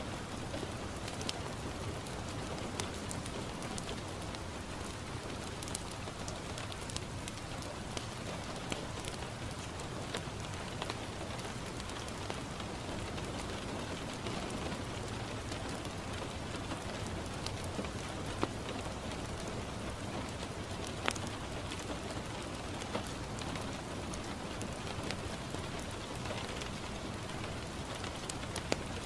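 Steady rain falling on a window pane, a continuous even hiss. Scattered sharp crackles and pops of a wood fire burning in a fireplace are mixed in, with a louder pop about two-thirds of the way through.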